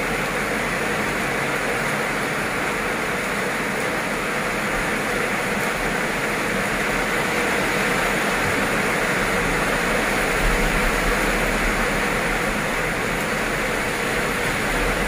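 Heavy rain pouring steadily onto flooded pavement, with the low rumble of passing road traffic swelling about ten seconds in and again near the end.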